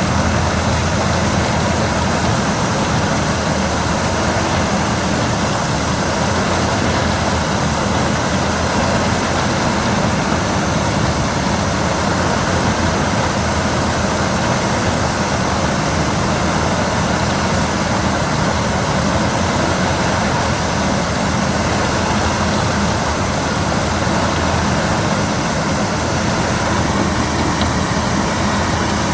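Albach Diamant 2000 wood chipper running steadily at working speed, a loud even machine noise with a thin high whine over it.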